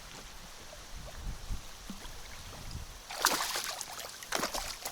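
Water splashing beside a boat in two short bursts, one a little after three seconds in and one past four seconds in, as a hooked zander is brought to the surface. A low wind rumble runs underneath.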